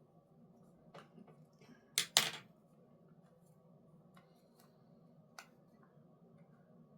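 Small clicks and knocks of objects being handled on a desk, with two louder knocks close together about two seconds in, over a faint steady room hum.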